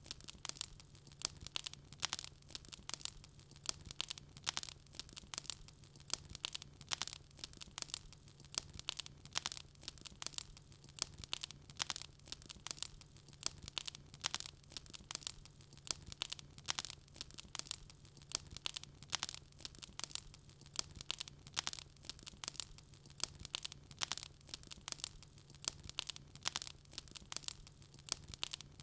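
Wood fire crackling: a steady run of irregular small pops and snaps, with a faint low steady hum underneath.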